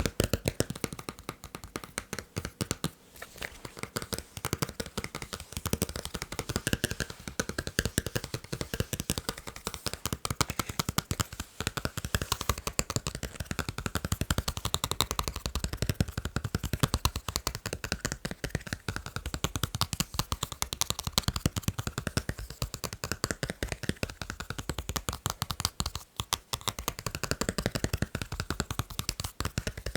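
Rapid, continuous fast tapping of fingers on the items of a fan-club membership kit, close to the microphone, with occasional brief scraping.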